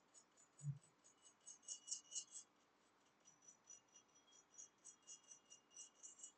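Faint, rapid scratching of a small metal tool scraping a phone circuit board, several short strokes a second, with one soft low thump about a second in.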